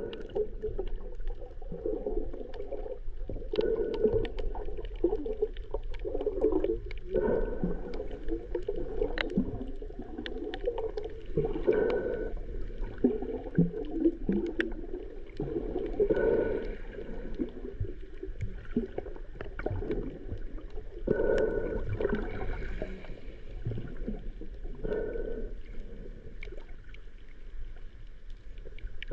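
Muffled underwater gurgling and bubbling while snorkeling, swelling about every four to five seconds, with scattered sharp clicks.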